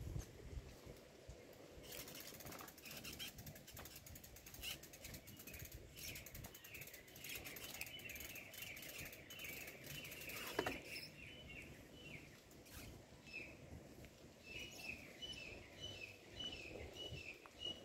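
Small birds chirping: runs of short, quick, falling chirps repeated several times a second, in two spells. A rapid patter of faint clicks sits under the first spell, and a single louder tap comes about halfway through.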